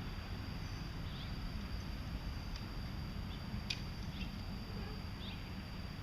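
Outdoor ambience: steady low wind rumble with a faint steady high tone, a few short faint bird chirps and one sharp click about four seconds in.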